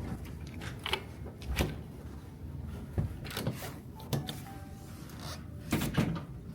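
Several irregular sharp clicks and knocks from things being handled, over a steady low hum of the ship.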